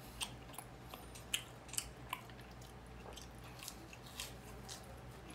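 Close-miked chewing and crunching of food in the mouth: a scatter of short crisp crunches, loudest and thickest in the first two seconds, then sparser.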